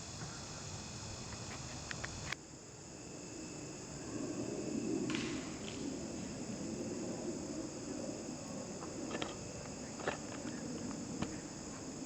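Steady chorus of crickets and other insects trilling, with an abrupt break about two seconds in. From about four seconds in a low rumbling noise becomes the loudest sound, with a few scattered clicks.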